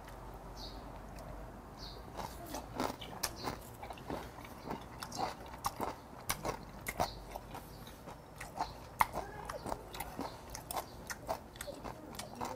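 A person chewing skin-on raw mudskipper sashimi close to a clip-on microphone: soft wet mouth smacks and clicks, a few a second, starting about two seconds in.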